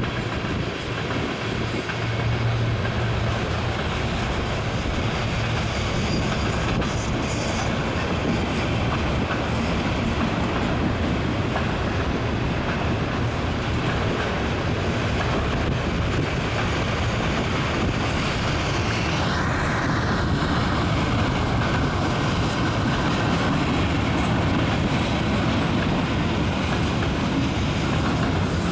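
Norfolk Southern freight train's cars rolling past, covered hoppers and boxcars, wheels running steadily on the rails.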